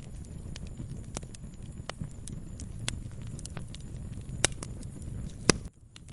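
Wood fire crackling in a fireplace: a low steady rumble with frequent small crackles and two loud pops near the end. The sound drops out briefly just after the second pop.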